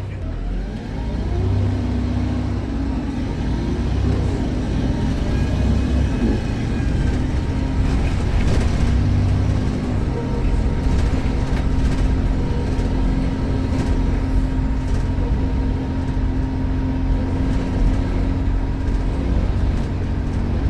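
Volvo B7RLE bus's six-cylinder diesel engine pulling under load, with a turbo whistle that rises in the first second or so and then holds steady over the engine's drone.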